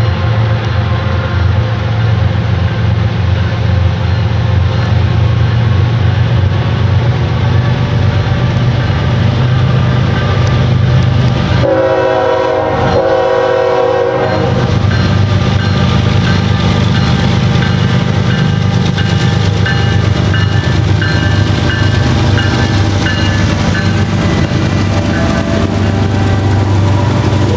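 Two diesel freight locomotives, a GE ES44AH leading and an EMD SD70AC trailing, approaching and passing with a steady deep engine rumble and rail noise. One locomotive horn blast of about three seconds sounds about twelve seconds in.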